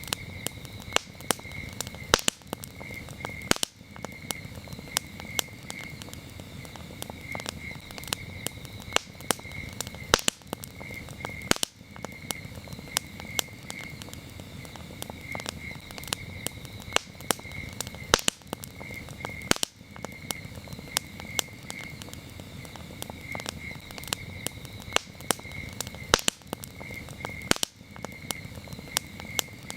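Campfire crackling, with frequent sharp pops and snaps over a low steady hiss of burning wood. Crickets chirp steadily in a high, pulsing tone underneath.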